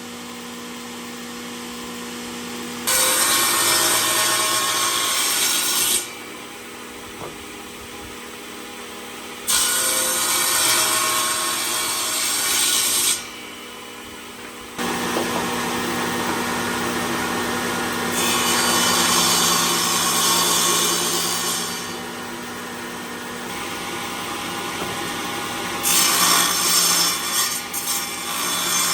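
Power tool working wood in repeated passes, each a few seconds long, over a steady motor hum. The loudest passes come about three seconds in, about ten seconds in, and near the end.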